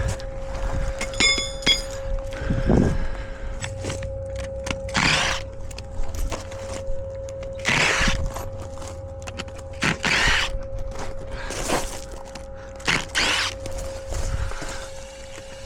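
Form stakes being worked out from beside a fresh concrete pour: a series of short scraping strokes every second or two, with a metallic clink near the start and a dull thud about three seconds in. A steady hum runs underneath.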